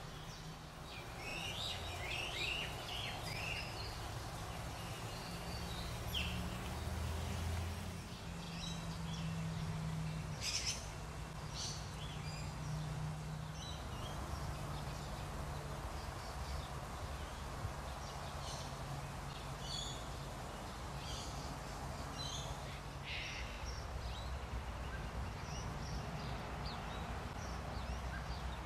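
Several birds chirping and calling, short calls scattered throughout, over a low steady rumble.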